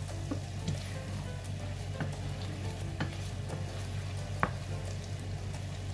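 Chicken wings sizzling in a sticky butter sauce in a nonstick pan while a wooden spatula stirs and turns them, with a few sharp knocks of the spatula on the pan, the loudest about four and a half seconds in.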